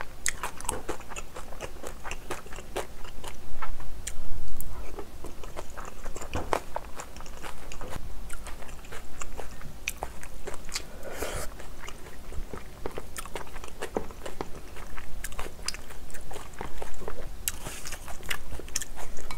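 Close-miked chewing and biting of spicy curry rice and crunchy napa cabbage kimchi: a steady run of wet chews, small crunches and clicks, loudest about four seconds in.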